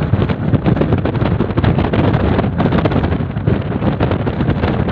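Wind buffeting the microphone, a loud, rough rumble that keeps fluttering.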